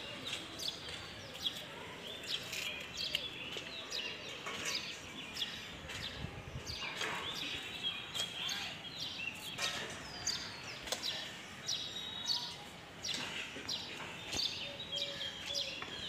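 Birds chirping: many short, quick calls coming one after another over a steady background noise.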